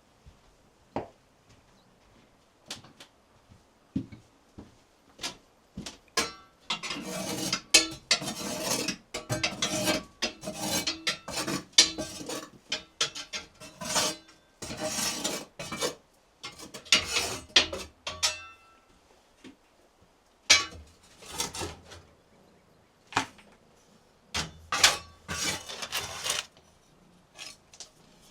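Hand work with objects: scattered light knocks and clicks, then several spells of rasping, scraping strokes, some with a faint metallic ring.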